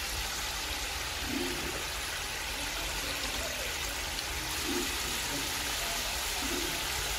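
Amla (Indian gooseberries) cooking in hot mustard oil in a steel karahi: a steady bubbling sizzle.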